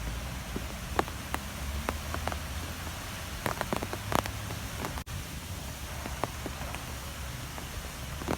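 Strong wind, a steady low rumble with scattered sharp ticks and taps over it, and a momentary dropout about five seconds in.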